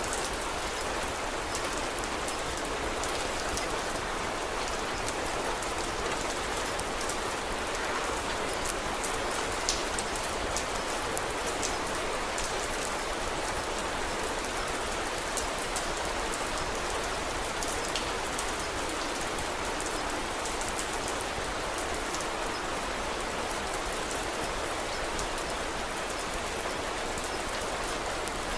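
Steady rain falling as a continuous, even hiss, with scattered light ticks of drops throughout.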